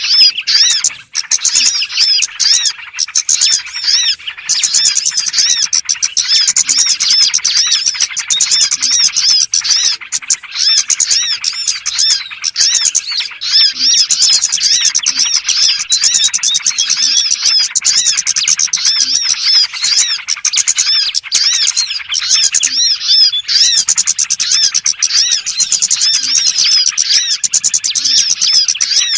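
Dense chorus of small birds chirping and twittering without pause, a bird-lure call used to draw small birds in.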